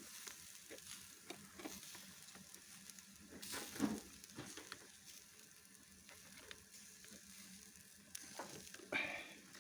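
Shashlik on skewers sizzling as it grills, a faint steady hiss with scattered crackles and pops, and louder bursts about four seconds in and near the end.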